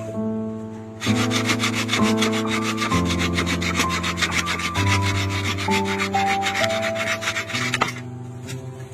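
Rapid, rhythmic rasping strokes of a hand tool working wood, starting about a second in and stopping near the end, over background music with slow, sustained notes.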